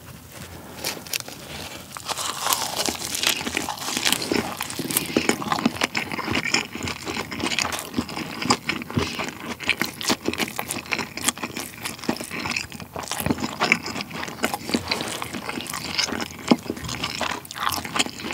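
Close-miked chewing of a perilla-leaf wrap of pork belly dipped in sweet-and-sour sauce: a dense run of crunchy chewing clicks and mouth smacks.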